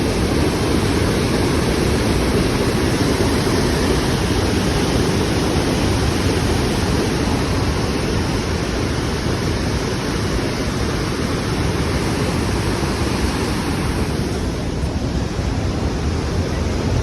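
Steady, loud rush of water pouring through a dam, continuous without a break.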